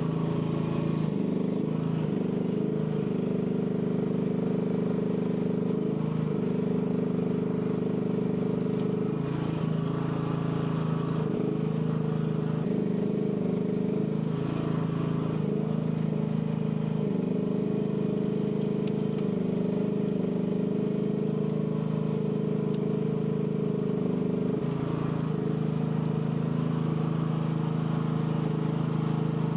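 AGT L12 mini excavator's small engine running steadily, its pitch dipping briefly several times as the hydraulics are worked.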